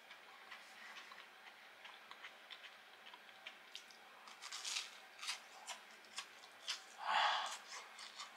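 Chewing of a crispy deep-fried white fish fillet: faint, scattered crunching clicks, with a louder noisy burst about seven seconds in.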